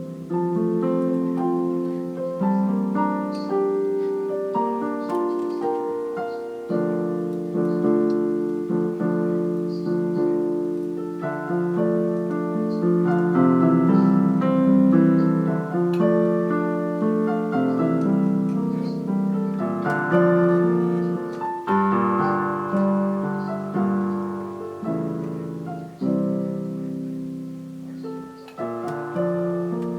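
Solo piano playing a slow piece in held chords, with new notes struck every second or so and left to ring over one another.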